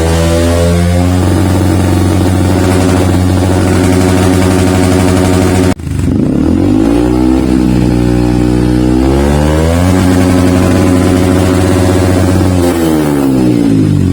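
Yamaha WR155's single-cylinder engine running through a Triton CR-5 stainless full-system aftermarket exhaust, blipped and held at raised revs. The revs drop back near the start, the sound cuts off abruptly about six seconds in, then the engine revs up, holds high and falls back to idle near the end.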